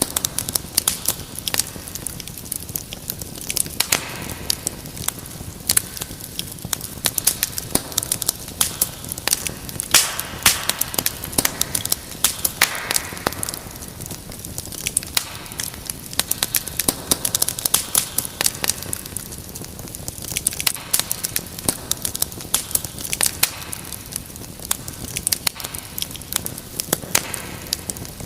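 Wood fire crackling in a fireplace: a dense, irregular run of sharp pops and snaps over a low hiss.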